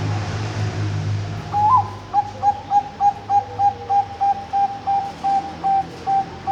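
Bangkok-strain zebra dove (perkutut) cooing: a single note with an upward flick, then a rapid even run of short, clear, same-pitched coos, about three or four a second.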